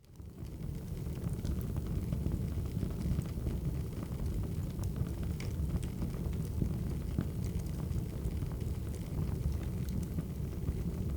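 Crackling wood fire: a steady low rumble of burning logs with scattered sharp crackles and pops. The sound drops out for a moment at the very start, then returns.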